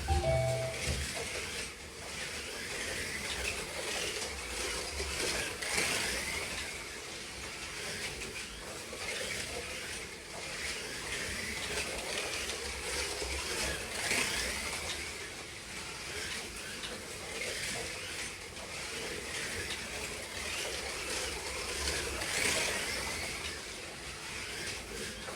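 Group 5 slot cars lapping a track: small electric motors and gears whining, swelling louder about every eight seconds as the cars pass.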